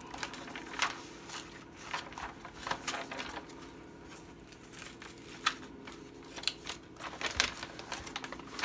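Rustling and crinkling of a tightly rolled diamond painting canvas being handled and pressed flat by hand, with scattered light clicks and taps.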